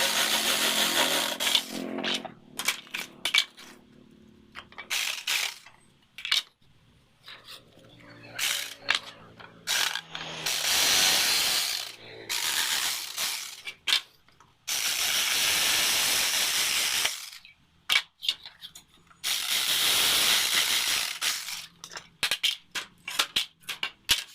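Tool work on a wooden frame: sharp clicks and knocks, broken up by four bursts of hissing noise, each about two seconds long.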